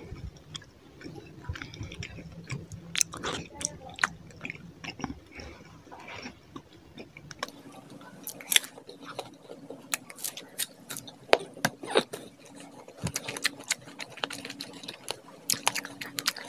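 A person chewing a mouthful of rice and fish curry with many short, wet mouth clicks and lip smacks.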